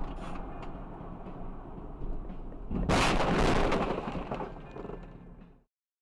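A car collision recorded by a dashcam: steady road and engine noise, then about three seconds in a sudden loud crash that lasts over a second and dies away. The sound cuts off abruptly shortly before the end.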